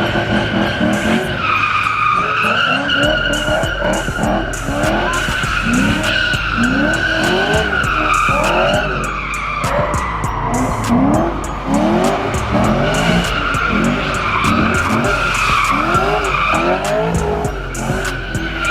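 A car's tyres squealing steadily through a burnout or donuts, with the engine revving up and down over and over beneath the squeal.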